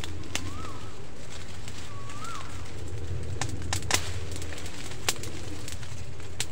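A bird calling twice with a short rising-and-falling whistle over a steady low hum, followed by a few sharp snaps, the loudest about four seconds in.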